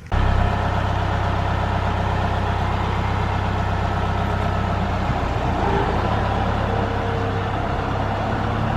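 An engine running steadily, with a low, even drone. It comes in abruptly at the very start.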